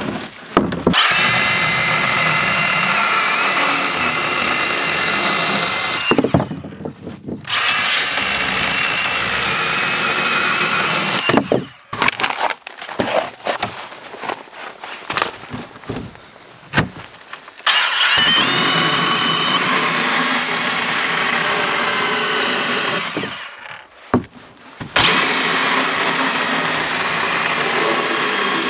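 Small cordless, battery-powered saw cutting hardwood firewood in four runs of several seconds each, its motor whine wavering as it works through the wood. Between cuts come short knocks and clatter of wood being handled.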